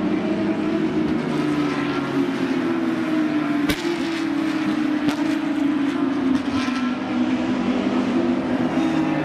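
Several Porsche 911 GT3 Cup race cars' 3.8-litre naturally aspirated flat-six engines running hard together, their overlapping notes drifting up and down in pitch, with a single sharp crack a little under four seconds in.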